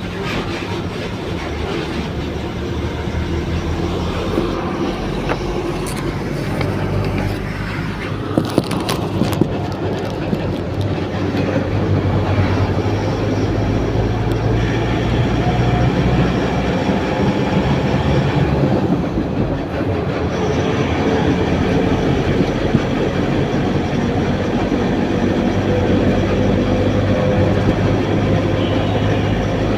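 Steady loud drone of a heavy vehicle on the move, with a low engine hum and rumbling running noise, and a few sharp clicks about eight seconds in.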